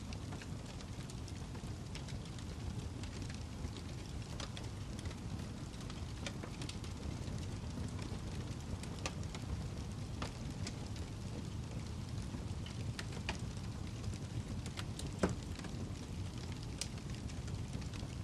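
Wood log fire burning in a fireplace: a steady low rumble of flame with scattered crackles and sharp pops, the loudest pop about fifteen seconds in.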